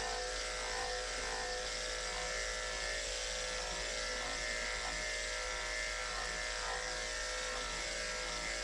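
Andis electric pet clippers running with a steady hum as they shave matted fur off a cat, the skin held stretched for the blade.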